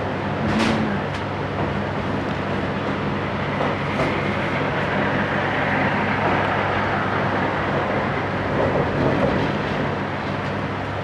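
Running noise inside a JR Hokkaido Series 711 electric train: a steady hum and rumble, with sharp clicks about half a second in and again at four seconds.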